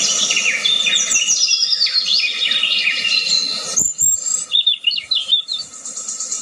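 Many songbirds chirping together in quick, downward-sliding notes over a steady high insect buzz. A little under four seconds in, the sound cuts out abruptly, and then only a few sparser chirps are left.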